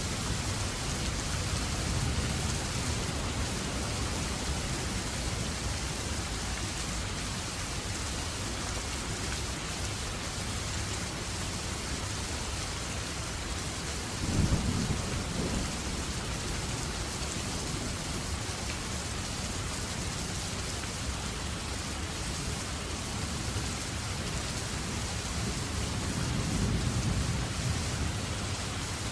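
Steady rain falling, with a short, loud low thump about halfway through and a low rumble swelling near the end.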